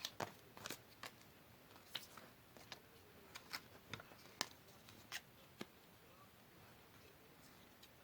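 Light clicks and rustles of paper being handled, about a dozen short sharp sounds spread over the first five and a half seconds, then quiet.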